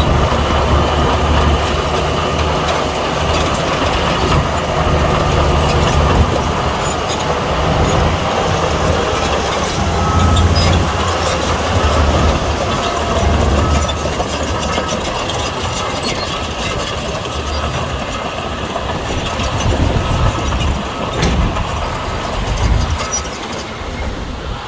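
Crawler bulldozer at work: its diesel engine rumbles under load, rising and easing, with the clatter of its steel tracks.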